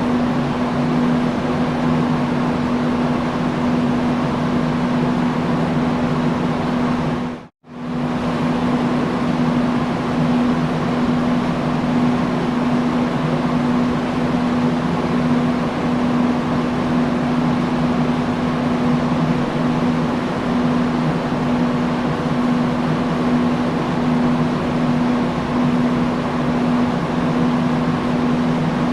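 Industrial fan running steadily: an even rushing with a low hum. About seven and a half seconds in the sound cuts out for a split second and comes straight back.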